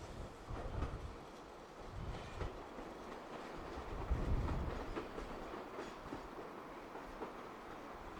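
Tobu 8000 series electric train running on the rails, a steady rumble with uneven low thumps from the wheels.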